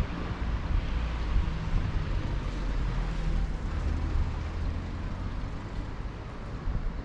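City street traffic heard from a bicycle: a motor vehicle's engine running close by for the first few seconds, over a steady low rumble of road noise.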